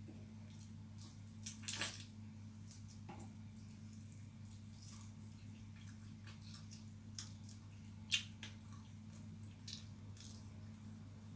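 Wet chewing and mouth smacking of a person eating pigeon, with scattered small clicks and two louder smacks about two and eight seconds in, over a steady low hum.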